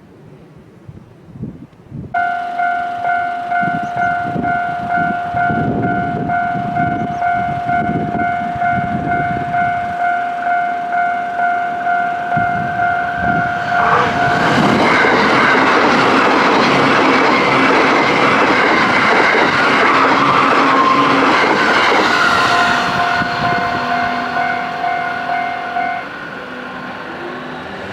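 Japanese level-crossing alarm ringing, a pulsing electronic ding about twice a second, starting about two seconds in. About halfway through, a JR East E657 series limited express train passes at high speed, a loud rushing noise that lasts several seconds and then fades. The alarm goes on ringing and stops near the end.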